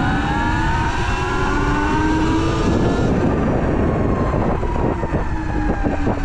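Sur-Ron Light Bee X electric dirt bike's motor whining as it rides, the whine climbing in pitch at first, holding, then slowly falling as the bike eases off, over a heavy low rumble, with a few knocks in the second half.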